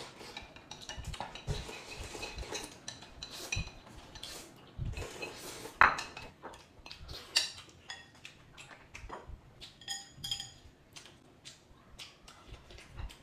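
Tableware being handled: utensils clicking and knocking against dishes, with a sharper knock about six seconds in and a few short ringing clinks near the end.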